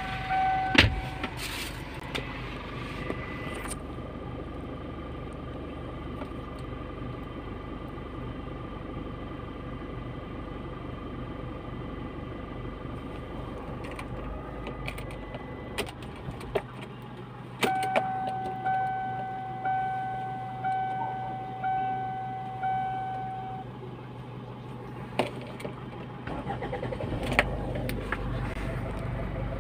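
Inside the cabin of a 2006 Kia Sportage CRDi, the diesel engine's low hum runs steadily, then drops away about halfway through. While it is gone, a dashboard warning chime sounds six times, about once a second. The engine hum returns near the end, with a few clicks around it.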